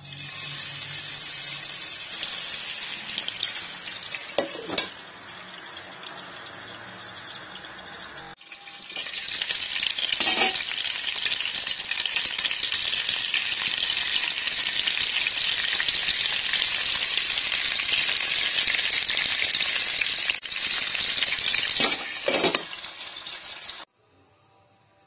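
Chicken shashlik skewers frying in hot oil in a nonstick frying pan: a steady sizzling that breaks off about eight seconds in and comes back louder, then stops shortly before the end. A few brief sharper sounds come as the skewers are handled in the pan.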